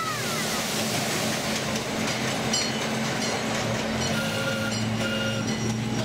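Miniature train running on its track, heard from an open passenger car: a steady low engine hum with rumbling wheel and rail noise and a few brief high squeals.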